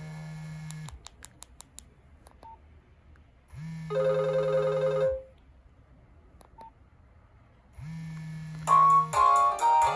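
Nokia 1112 mobile phone playing short monophonic alert tones one after another, each with a low buzz under it. Brief clicks fall between the tones, and a louder melody starts near the end.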